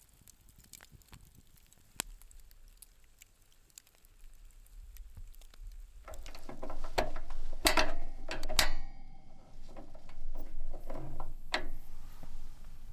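Faint scattered clicks, then from about six seconds in a run of loud, irregular mechanical clicks and clattering with rustling.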